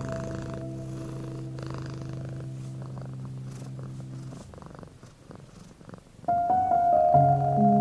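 A cat purring under soft, slow music of held notes. The music dies away a little past halfway, leaving the purring alone, and a new chord comes in loudly near the end.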